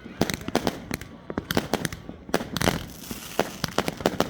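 New Year's fireworks going off: many sharp bangs and cracks in quick, irregular succession, several a second, overlapping.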